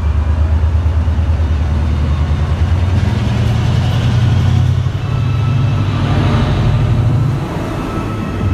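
Diesel train engine running loudly, its note rising about three seconds in and falling away near the end.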